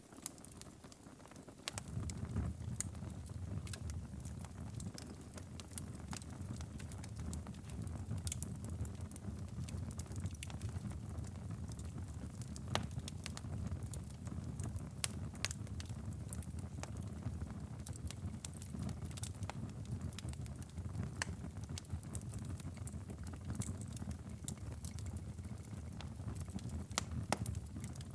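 Wood fire crackling and popping in a fireplace, with sharp irregular snaps over a steady low rumble that drops out briefly near the start.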